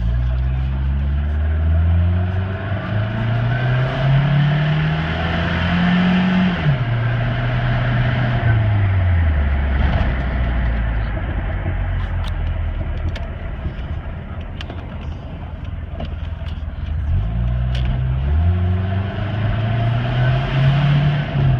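Toyota 22R-TE turbocharged four-cylinder pickup engine pulling under acceleration, its pitch climbing, then dropping suddenly at a gear change about seven seconds in and winding down to a low steady run. Near the end it picks up and climbs again.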